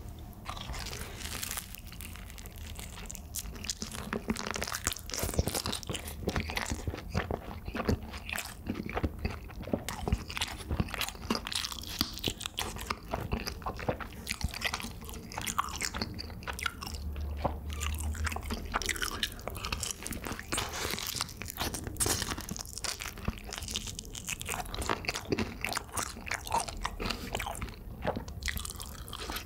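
Crunching and chewing of BHC Bburinkle seasoned fried chicken, picked up close for ASMR: crisp bites into the coated crust followed by a dense run of crackling chews.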